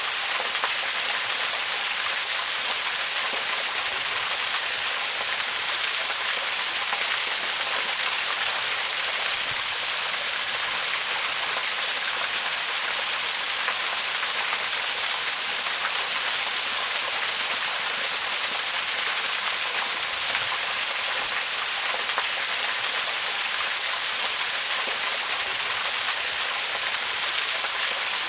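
Waterfall: falling water splashing in a steady, even hiss, strongest in the highs with little low rumble.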